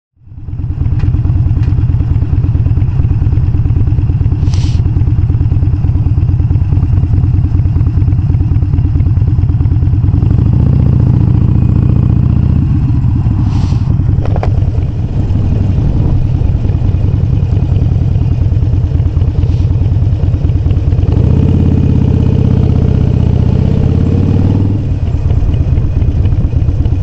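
Harley-Davidson Iron 883 Sportster's air-cooled V-twin, fitted with Vance & Hines Shortshots exhaust, running loud under way. It fades in about half a second in, and the note grows fuller twice: around ten seconds in, and again from about 21 to 25 seconds.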